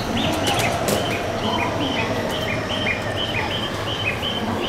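A Shinkansen train rolling slowly in toward the platform, heard as a steady low rumble. Over it a high two-note chirp repeats, high then low, about twice a second.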